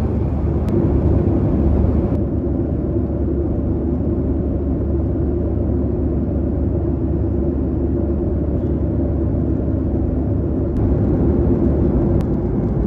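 Boeing 737-700 airliner's steady jet engine and airflow rumble, heard from inside the passenger cabin.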